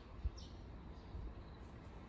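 Faint high chirps of small birds, each a short falling note, heard twice, over a low steady rumble of background noise, with one soft low thump about a quarter second in.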